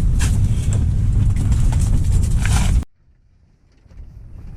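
Strong wind buffeting the microphone, a heavy low rumble with a few sharp gusts. It cuts off suddenly about three seconds in to near quiet, then the rumble slowly builds back.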